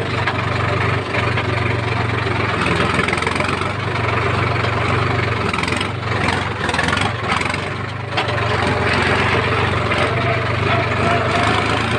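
Heavy diesel engine running steadily with a low hum, easing off briefly about two-thirds of the way through.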